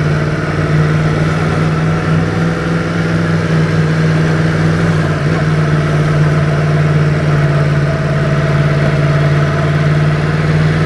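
Yamaha MT-10's inline-four engine running steadily at low revs through an Akrapovic exhaust, with no revving.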